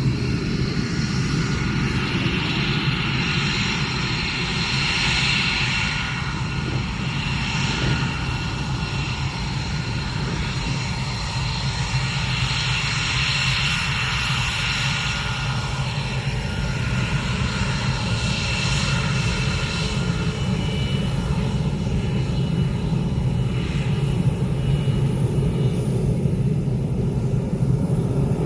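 Aircraft engines running: a steady low rumble under several high, steady whining tones that swell twice and then fade.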